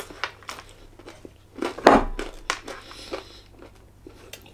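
A man chewing a mouthful of chilli hot dog close to the microphone: a string of short, wet mouth clicks and smacks, with a louder thump about two seconds in.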